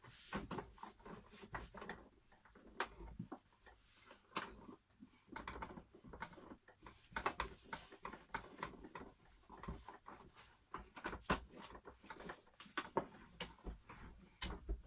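A cloth rubbing over the plastic casing of a cylinder vacuum cleaner as it is wiped down, with many irregular light knocks and clicks as the machine and its parts are handled.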